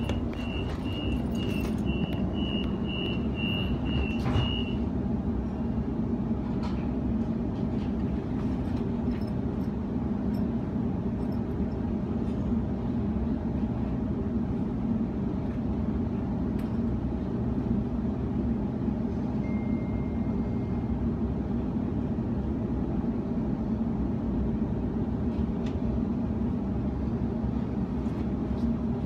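Train door warning beeps, a string of short high beeps at about two and a half a second for the first few seconds as the doors close, ending with a knock as they shut. Then the steady running noise of the electric suburban train's motors and wheels as it pulls out and travels along the track.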